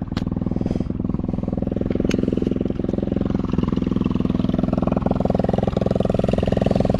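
A Chinese 110cc ATV's small single-cylinder engine idling steadily with a fast, even beat, with a couple of short clicks near the start and about two seconds in.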